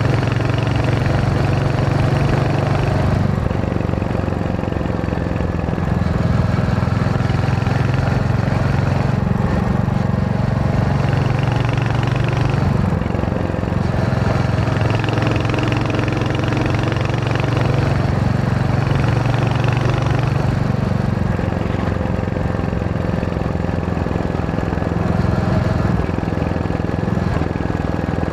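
Royal Enfield Hunter 350's single-cylinder engine running on the move, its note steady but shifting in pitch every few seconds as the throttle changes.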